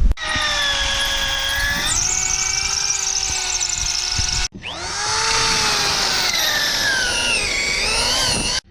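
Electric drill running to bore holes, in two long runs. The motor whine drops in pitch and wavers as the bit bites under load.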